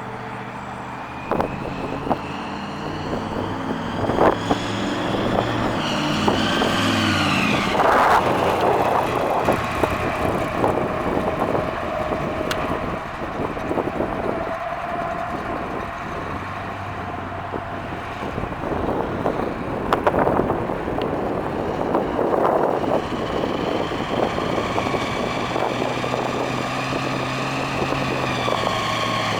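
Supercharged 350 V8 of a 1970 Chevrolet Camaro Pro-Street driving, its pitch climbing as it accelerates. The pitch drops sharply about seven or eight seconds in and then holds steady, and it climbs again near the end. Some wind noise is on the microphone.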